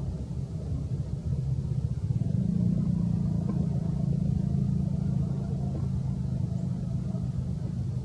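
Steady low engine rumble of a motor vehicle, growing louder about two seconds in.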